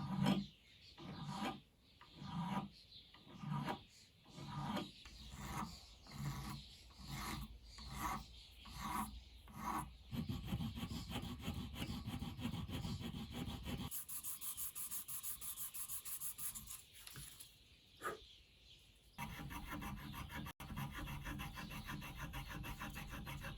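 Hand filing: a file scraping back and forth in slow, even strokes, about one and a half a second, then faster, continuous scraping for the rest of the time, with a couple of separate strokes in between.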